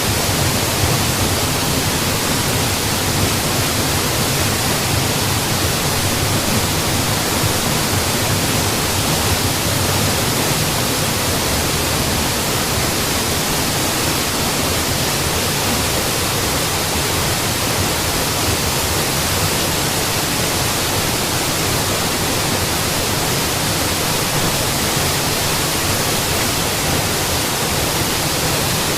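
Waterfall, a steady rush of falling water that does not change.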